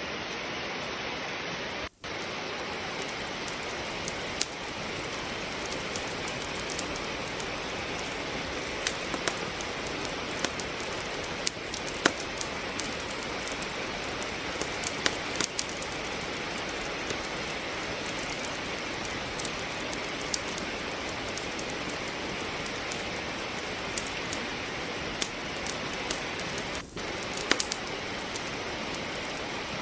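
Steady rain hiss with a wood fire crackling over it: scattered sharp pops and snaps from burning logs. The sound drops out for an instant about two seconds in and again near the end.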